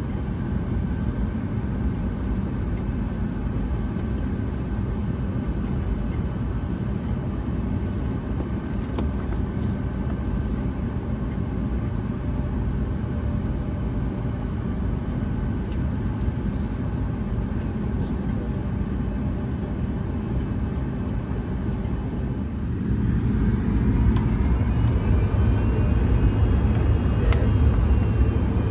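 Boeing 757-200 cabin noise with the jet engines running: a steady low rumble. About 23 s in it grows louder, with a rising whine as engine power is increased.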